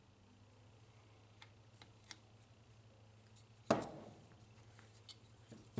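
Parts of a vending machine's rotor gearbox being handled during reassembly: a few light clicks, then a single sharp clunk about two-thirds through that rings briefly, and another knock at the end, over a faint steady hum.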